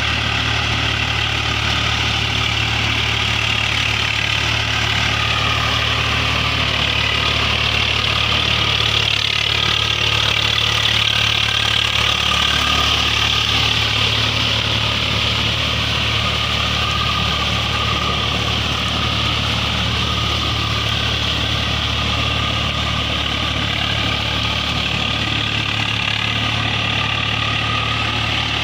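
Tractor's diesel engine running steadily, its pitch wavering a little now and then.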